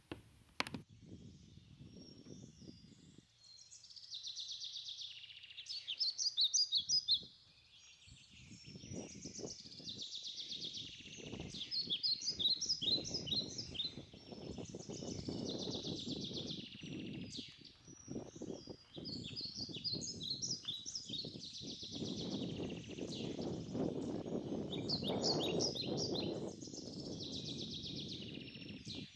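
A songbird sings repeated short phrases of quick high chirps and trills every few seconds. A low rustling noise runs underneath from about eight seconds in.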